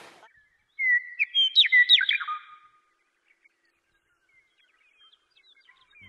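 A bird singing: one short phrase of clear whistled notes sweeping quickly up and down, about a second in, followed by faint scattered chirps.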